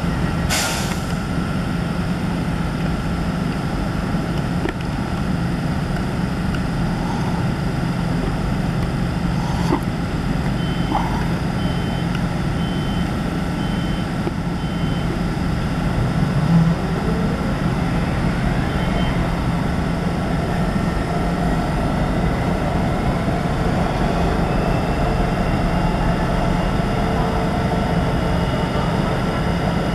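Great Western Railway Class 800 train standing at the platform with a steady hum, with five short beeps about a third of the way in. A whine slowly rises in pitch through the second half.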